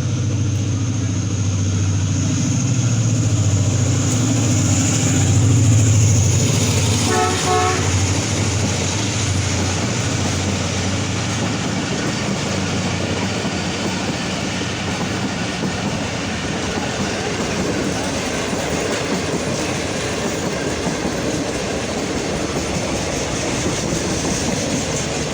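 Pakistan Railways Tezgam Express running through a station at speed: the diesel locomotive's engine drone passes first, with a short horn sound about seven seconds in, then the passenger coaches roll by with a steady rumble and clatter of wheels on the rails.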